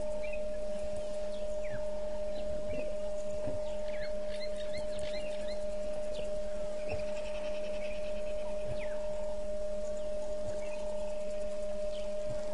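Wild birds calling: short, falling whistled chirps scattered throughout and a rapid trill about seven seconds in, over a constant steady hum tone that is the loudest thing throughout.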